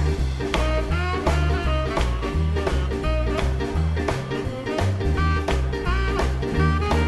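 Swing band playing an instrumental break: a tenor saxophone solo over a walking upright bass line and drums keeping a steady beat.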